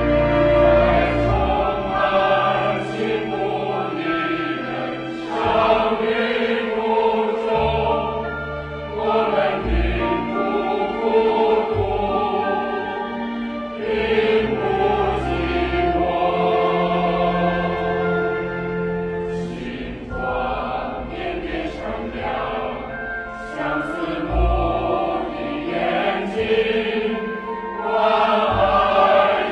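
A choir singing, holding long notes over a low bass line that changes every few seconds.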